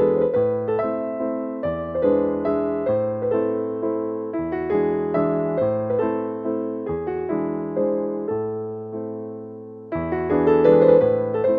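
Background music: gentle piano (electric piano) playing steady chords and melody notes that fade after each strike.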